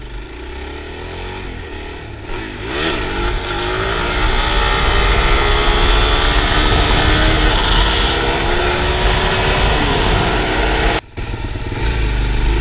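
Motorcycle engine revving and accelerating, its pitch climbing steadily for several seconds, over a heavy low wind rumble. The sound cuts off abruptly about eleven seconds in and resumes as a low rumble.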